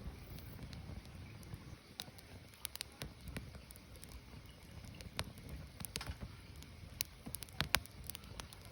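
Firewood burning: irregular sharp crackles and pops over a low, steady rumble of flame, with the loudest pops clustered a little past halfway.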